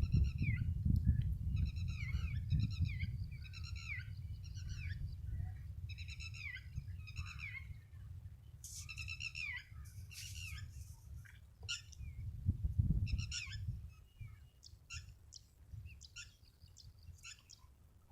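Birds calling over and over in short bursts of quick downward-sweeping chirps, over a low rumble that dies away near the end.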